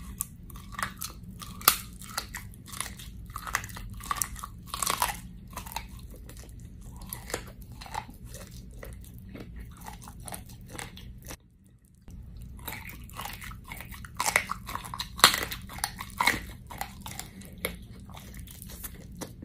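Close chewing and biting of sauce-coated chicken feet, with many sharp, irregular crunches. There is a brief break a little past halfway before the crunching resumes.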